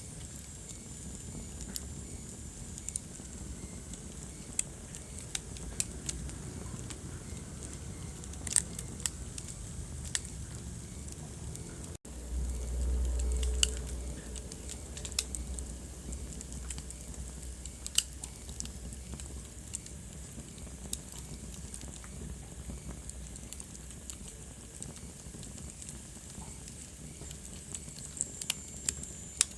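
Wood fire crackling in a fireplace: irregular sharp pops and snaps over a steady low hiss. About twelve seconds in the sound briefly drops out, then a louder low rumble runs for a couple of seconds.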